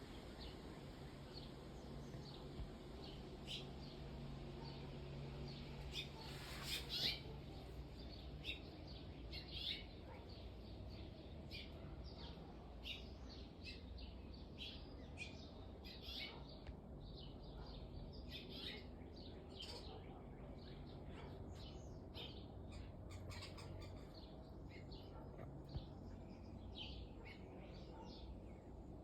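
Faint birdsong: many short chirps and calls from small birds over a low steady outdoor background, with one louder call about seven seconds in.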